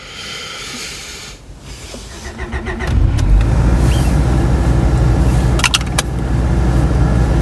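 A Honda Prelude's four-cylinder engine cranking briefly, catching about three seconds in and settling into a steady, noisy idle. A couple of sharp clicks come about six seconds in.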